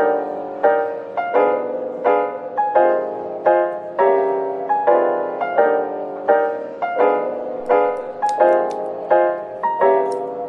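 Background piano music, soft chords struck at a steady pace of about one and a half a second, each note ringing and fading.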